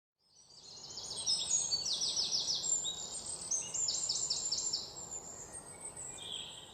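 Birds chirping and singing over a faint outdoor hiss, fading in from silence, with quick runs of short repeated chirps that thin out near the end.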